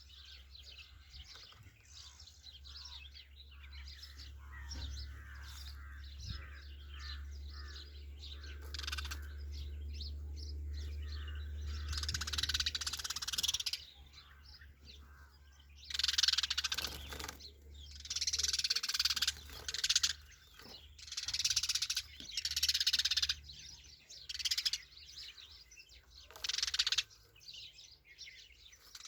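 Sparrows chirping rapidly and continuously, with a low hum underneath in the first half. In the second half there are about six loud, harsh bursts, each about a second long.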